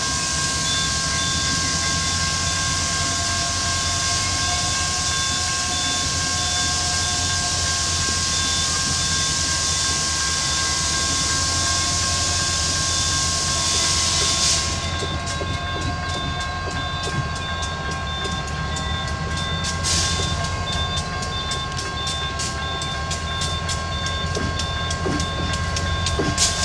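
CSX diesel freight locomotive approaching with its train, a steady low engine rumble under a steady high tone. About halfway through a hiss drops away and sharp wheel clicks over the rail joints take over as the locomotive draws near.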